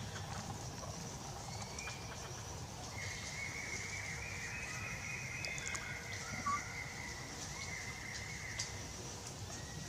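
A monkey giving a long, high-pitched, drawn-out whining call that starts about three seconds in, breaks briefly and carries on for about five seconds, with a few faint clicks.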